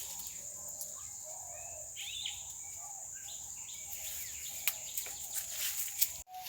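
Outdoor ambience of birds chirping over a steady high insect drone, with a few sharp clicks in the second half.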